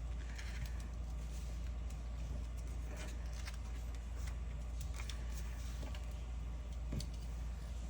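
Lego plastic pieces handled and pressed together, with a few faint scattered clicks and scrapes over a steady low hum.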